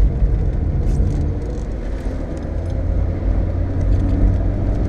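Volkswagen Golf's engine and tyre noise on a wet road, heard from inside the cabin: a steady low drone while the car drives on at speed.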